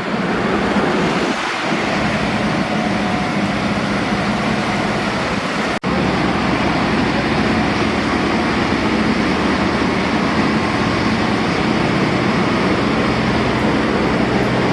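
Steady city street traffic noise, with the hum of vehicle engines under it. It drops out for an instant about six seconds in.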